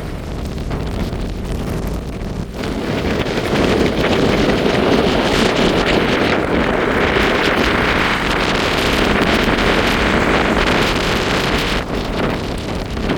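Wind buffeting the microphone over the wash of waves, a steady rush that grows louder about three to four seconds in and eases near the end.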